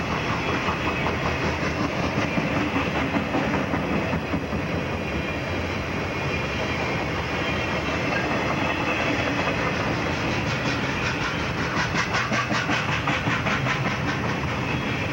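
Freight train of highway trailers on flatcars rolling past close by: a steady rumble of steel wheels on rail. About two-thirds of the way through, a quick, even clickety-clack of wheels over rail joints comes through plainly.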